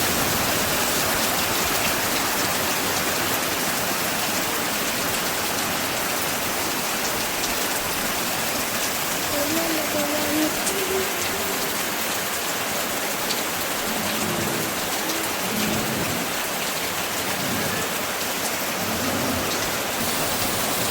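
Heavy rain pouring steadily: a dense, even hiss of rain striking surfaces.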